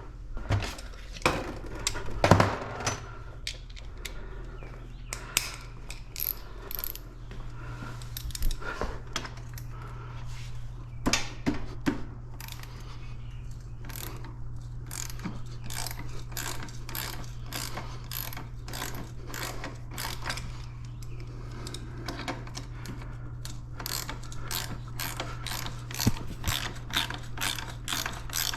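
Hand ratchet wrench clicking in runs as a bolt is worked, with a few louder knocks of tools on metal in the first seconds. The clicks grow steadier and quicker later on, about three to four a second. A steady low hum runs underneath.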